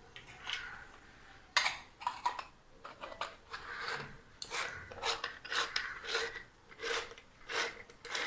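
Hand-operated metal murukku press being worked to squeeze ribbon pakoda dough through its plate, a run of short metallic rasping strokes about twice a second.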